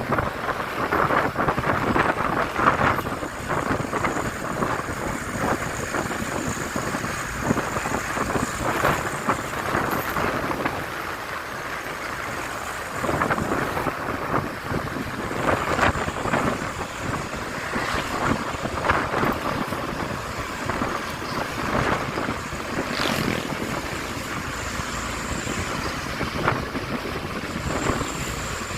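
Truck on the road, its running noise mixed with wind buffeting the microphone, with frequent short crackles.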